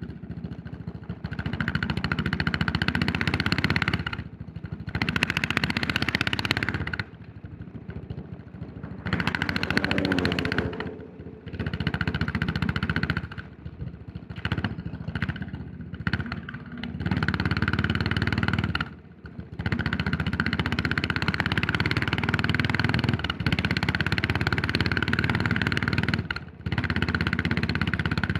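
Yamaha SR400's single-cylinder four-stroke engine pulling the motorcycle along, the throttle closing and reopening several times so the sound drops away briefly and comes back, with a rise in pitch about ten seconds in; it runs steadily through the last part.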